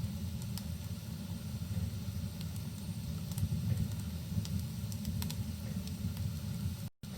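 Wood fire crackling in a fireplace: scattered sharp crackles over a steady low rumble. The sound cuts out completely for a split second near the end.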